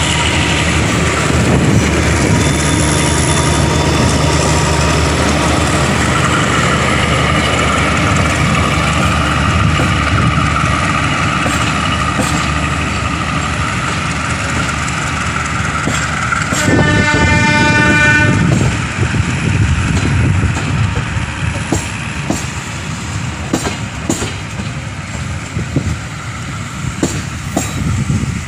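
Diesel-hauled passenger train pulling out and its coaches rolling past, a steady rumble throughout. Past the middle the train horn sounds once for about two seconds. Toward the end the wheels clack unevenly over the rail joints as the coaches go by.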